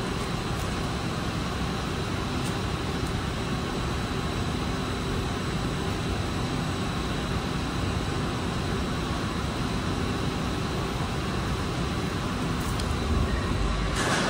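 1992 Lexus SC400's V8 idling steadily, an even low hum with no revving. A brief rustle of the camera being picked up comes near the end.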